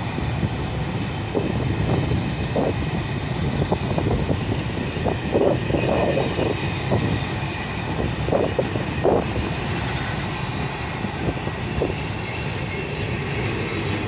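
Freight train box wagons rolling past on the rails: a steady rumble of wheels with repeated short knocks and rattles from the passing wagons.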